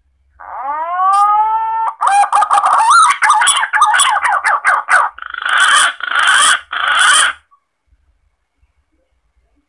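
Green pigeon (punai) call used as a hunting lure. It opens with a rising whistle, runs into a quick string of warbling notes, and ends with three harsher, rasping notes.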